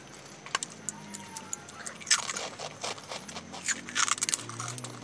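Someone biting and chewing small crisp papads: a series of sharp crunches, the loudest about two seconds in and again around four seconds in.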